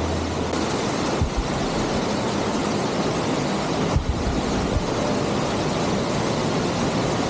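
Waterfall: a steady, even rush of falling water, with a few brief low thumps about a second in and again around four seconds.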